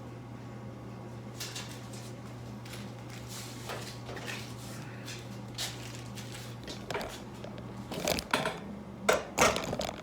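Hands working with small metal parts and tools: scattered light clicks and rustling, becoming louder clinks and clatter in the last two seconds, over a steady low hum.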